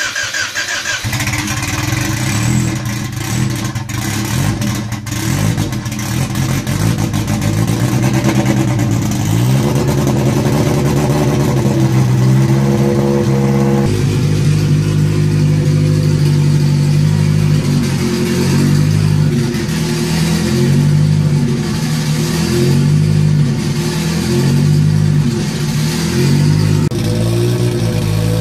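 Freshly built turbocharged four-cylinder engine running just after its first start, running rich on bigger injectors, with a sound the owner likens to a rotary. Its speed climbs around ten seconds in. In the second half it is revved up and down about every second and a half.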